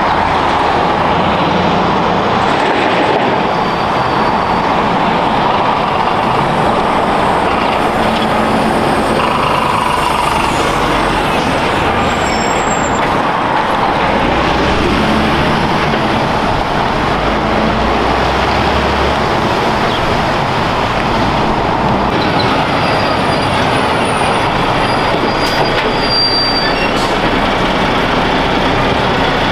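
Heavy trucks running, a steady, dense engine and vehicle noise with a few faint high whistling tones.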